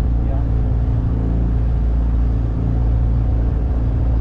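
9.8 hp outboard motor running steadily under way, a low even drone.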